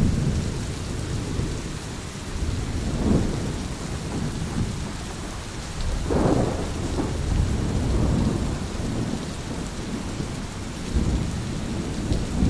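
Steady heavy rain with low rolling thunder that swells several times, most strongly about halfway through.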